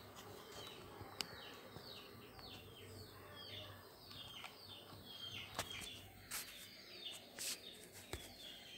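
A bird giving a faint, rapid series of short falling chirps, about three a second. A few sharp clicks stand out, the loudest near the middle and towards the end, over a low steady hum.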